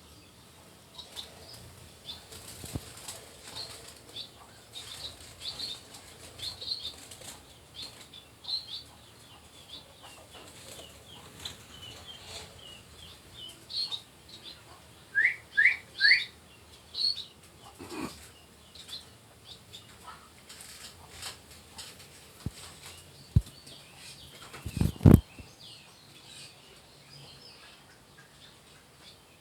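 Pet finches and budgerigars chirping steadily, with short high chirps and wings fluttering. About halfway through come three loud rising calls in quick succession, and a couple of sharp knocks follow later.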